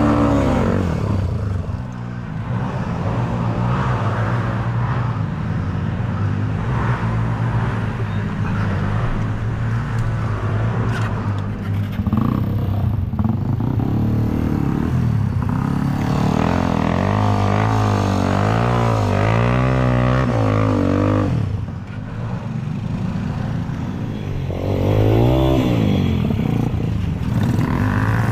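Enduro dirt bike engine revving up and down again and again, its pitch rising and falling, with brief drops near the start and about two-thirds of the way through.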